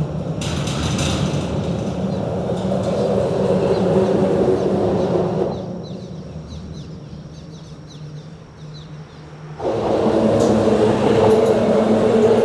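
Steady rumble of vehicle traffic on a bridge, with a low hum running through it. Just past halfway it eases off for about four seconds, then comes back abruptly at full level.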